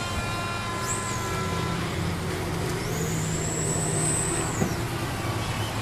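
Electric RC stadium trucks racing: a high-pitched motor whine rises and falls briefly about a second in, then again for longer from about three seconds in, over a steady noisy background.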